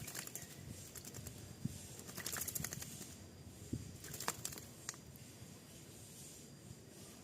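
A jalak (myna) bathing, fluttering its wings in the water in several short bursts of flapping and splashing; the longest burst comes about two seconds in.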